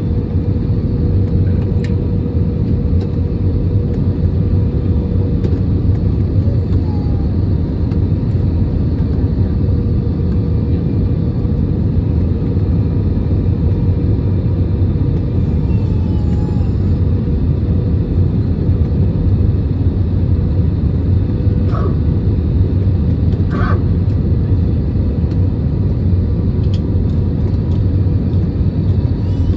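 Steady, loud cabin rumble of an Airbus A320 in flight or on its landing run, from the engines and airflow, with a faint steady tone running through it.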